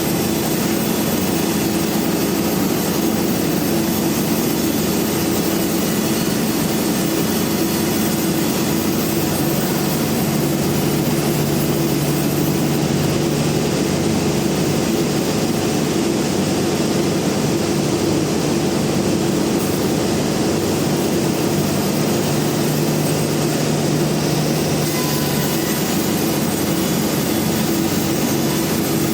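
Band sawmill running steadily, a loud, constant machine drone with a low hum that does not change.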